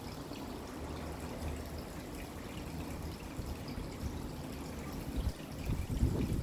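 Steady rain with water pouring and trickling, faint drips ticking through it. A low rumble swells up near the end.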